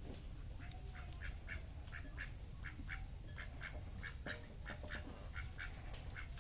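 Domestic ducks quacking: many short quacks, about two or three a second, over a low steady rumble.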